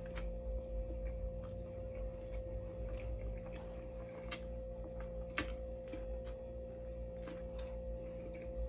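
A person chewing a mouthful of sandwich, with scattered small clicks of the mouth and jaw, over a steady background hum.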